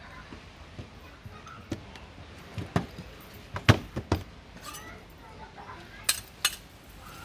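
Irregular sharp clacks and knocks of cooking utensils at a street pancake stall: a few spread out, a cluster of four around the middle, and two more near the end.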